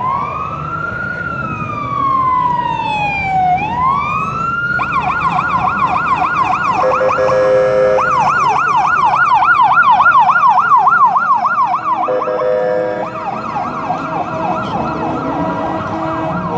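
Electronic emergency-vehicle siren in the American wail-and-yelp pattern: a slow rising and falling wail for the first few seconds, then a fast yelp of about four sweeps a second. Twice, around the middle and again after about twelve seconds, a lower steady horn-like tone sounds briefly as the yelp pauses.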